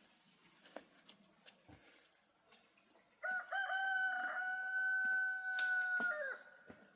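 A rooster crowing once: one long call held for about three seconds, starting about three seconds in and dropping in pitch as it ends.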